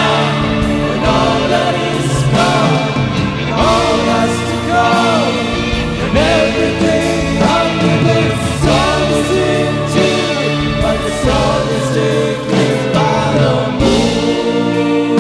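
Live rock band playing sustained chords while several singers wail wordless, wavering vocal lines over them.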